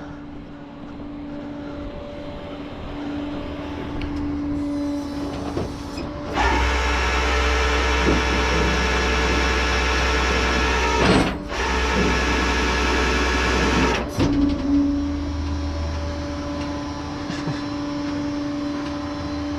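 Tow truck engine running with a steady hum, then louder under load for about eight seconds from about six seconds in, with one short dip partway through, before settling back to the steady hum.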